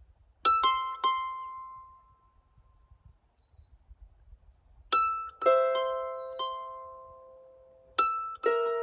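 Slow, sparse plucked notes on a melodic instrument, each note struck sharply and left to ring out and fade, coming in small groups of two to four.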